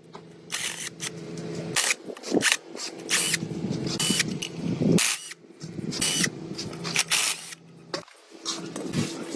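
Workshop work on motorcycle parts: a small motor hums steadily while many sharp metallic clicks, knocks and scrapes come at irregular intervals. The hum cuts out briefly about eight seconds in, then starts again.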